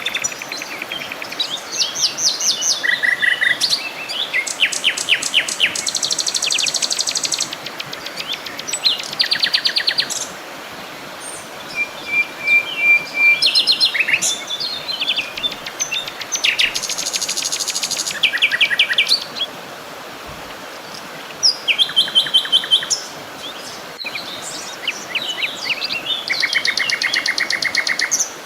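Several birds singing and chirping together, with many fast trills of rapidly repeated notes, over a steady background hiss.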